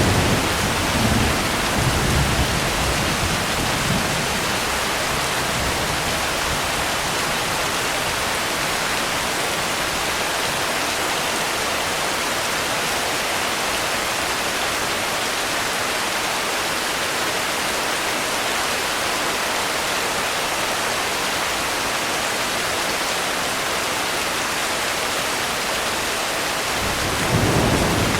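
Steady, even rain with a low thunder rumble dying away over the first few seconds, and another rumble of thunder building near the end.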